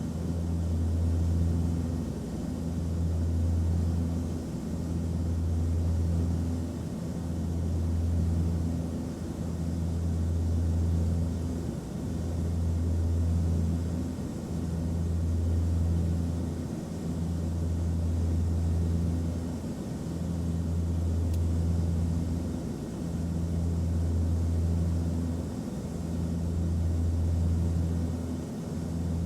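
Airplane cabin noise in flight: a low, steady drone that swells and dips about every two and a half seconds.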